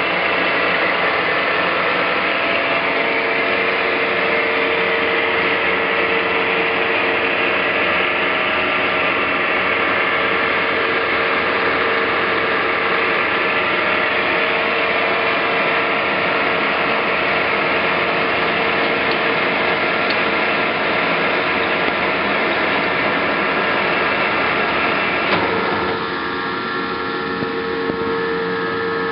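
Clausing Colchester 17" x 60" engine lathe running, its geared headstock giving a steady mechanical whir and gear chatter. About 25 seconds in, a brief knock is heard and the sound drops to a quieter, steadier run.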